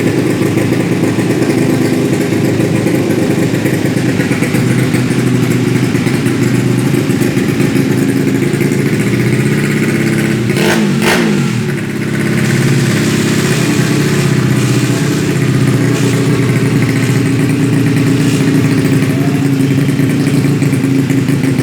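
Automatic scooter's single-cylinder engine running through a WRC 'mber' racing aftermarket exhaust, a steady, loud exhaust note. About halfway through the note briefly changes pitch and dips, then settles back.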